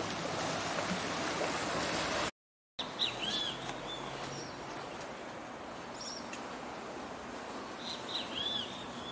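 Small waves lapping on a sandy beach, cut off suddenly by a brief silence. Then a bird chirping in two short bursts of arched high notes, about five seconds apart, over a faint steady hiss.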